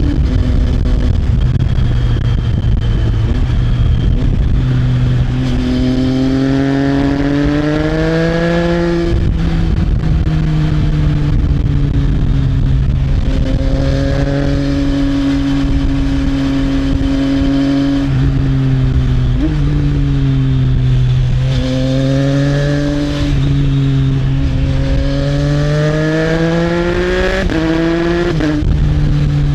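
Triumph Trident 660's three-cylinder engine through an Arrow exhaust under way: the engine note climbs under acceleration, drops sharply at a gear change about nine seconds in, holds steady while cruising, then climbs again and drops at another upshift near the end.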